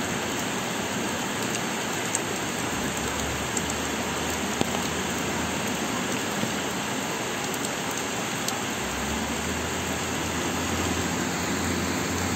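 Heavy rain falling steadily, a dense even hiss, with a few sharp ticks scattered through it.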